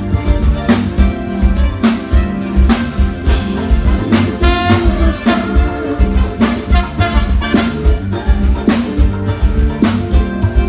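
A live band playing with a drum kit keeping a steady, busy beat under held notes from other instruments.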